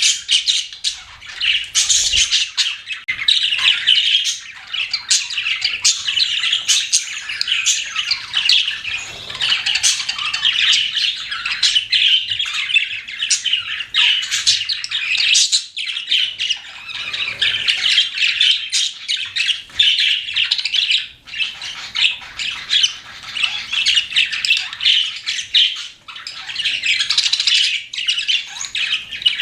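Pet budgerigars chattering and chirping continuously: a dense, overlapping stream of short high chirps, squawks and warbles from several birds.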